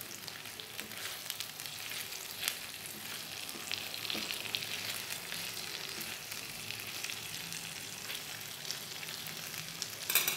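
Marinated chicken tikka pieces sizzling and crackling in oil on a flat tawa, with a silicone spatula scraping and pushing them around the pan. A brief louder clatter near the end.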